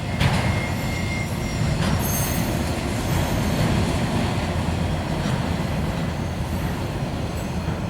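Auto rack freight train rolling past at close range: a steady rumble of the cars' wheels on the rails, with a brief faint high wheel squeal near the start.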